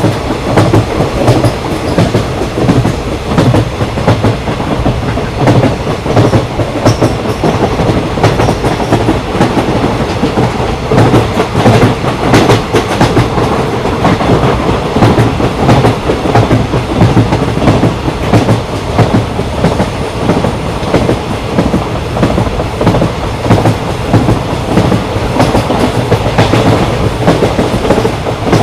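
Indian Railways passenger train running at speed, a steady rumble of the wheels and coaches with continual clickety-clack from the rail joints.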